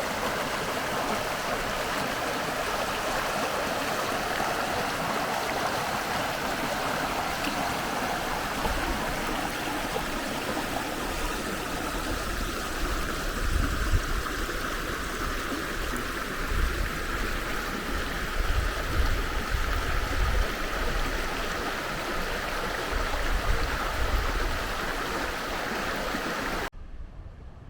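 River water rushing steadily, with wind buffeting the microphone in low rumbling gusts from about a third of the way in. The water sound cuts off abruptly near the end.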